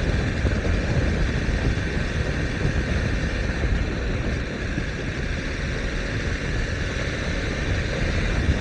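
BMW S1000R's inline-four engine running steadily at cruise, mixed with wind and road noise heard from the moving motorcycle.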